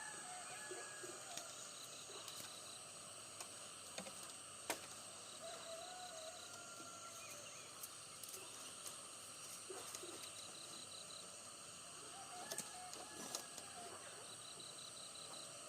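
Birds calling outdoors with short whistled notes, over a steady high-pitched insect drone. Four short rapid trills repeat every few seconds, and a few sharp knocks come at intervals.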